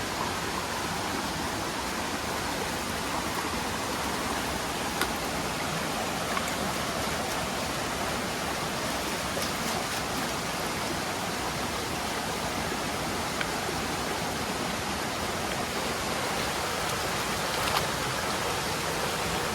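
Steady rushing of running water, with a few faint ticks.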